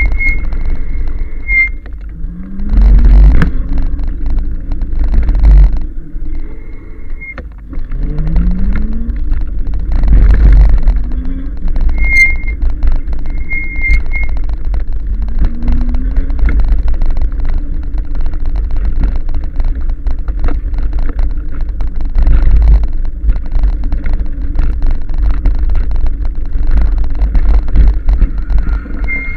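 Ride noise from a 1000-watt electric bike in motion: heavy wind rumble buffeting the microphone, with a motor whine that rises in pitch four times and a thin high tone that comes and goes.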